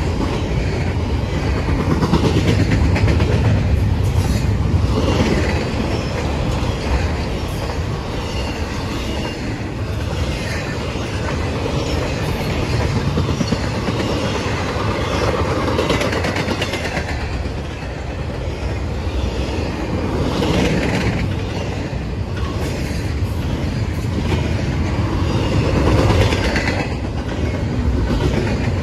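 Long intermodal freight train rolling past: a steady rumble of car wheels with a clickety-clack over the rail joints.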